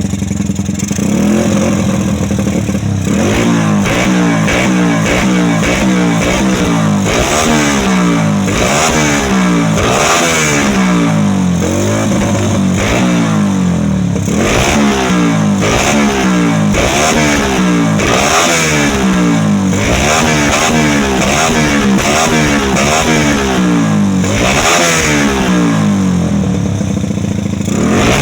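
Motorcycle engine running at idle, then revved again and again in quick throttle blips, the pitch rising and falling about once a second from about three seconds in.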